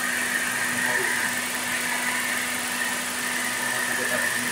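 Toyota Yaris engine idling steadily with the A/C switched on and the newly fitted A/C compressor running, a constant hum with a steady tone in it. The A/C is blowing cold, so the replacement compressor is working.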